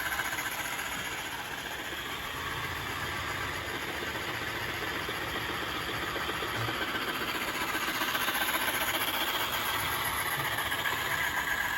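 Deebot T8+ robot vacuum running with its oscillating mopping-pad attachment: a steady, loud motor hum with a vibrating buzz from the oscillating mop.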